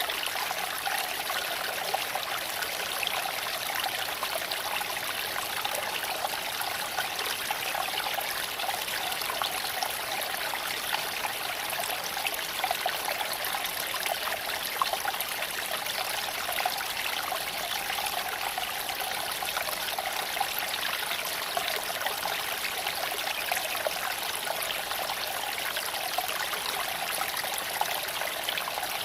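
Small creek running over stones: a steady babble of flowing water, with small splashes ticking through it.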